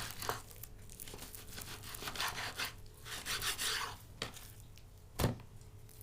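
Knife cutting raw bone-in steaks: two longer scraping strokes about two and three seconds in, a few light clicks, and one sharp knock about five seconds in.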